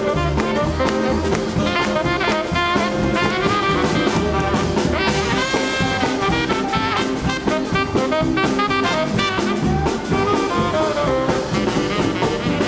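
A live swing band plays an instrumental passage, with horns (saxophone and brass) over drum kit and bass.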